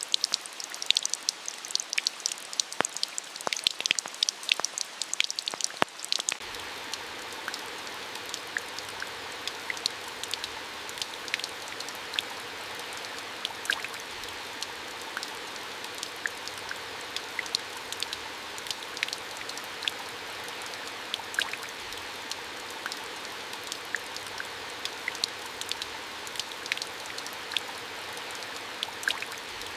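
Rain falling, many drops pattering over a steady hiss. About six seconds in it changes abruptly to a steadier, softer hiss with only scattered drops.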